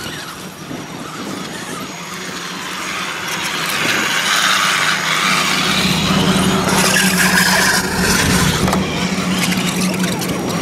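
Radio-controlled scale crawler driving, its electric motor and gears whining. The sound grows louder over the first few seconds and holds, with a steady low hum joining about halfway through.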